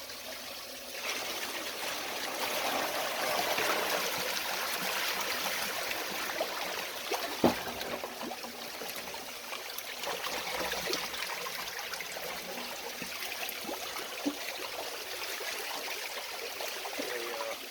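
Water running and splashing steadily into a garden fish pond. It swells about a second in, and there is a single knock about halfway through.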